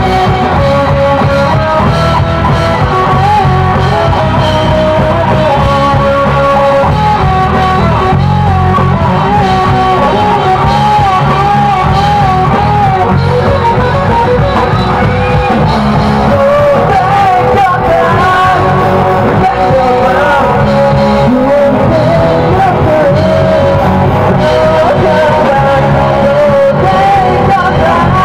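Live rock band playing loud: distorted electric guitar, bass and drums, with a wavering melody line over them, sung or played on lead guitar.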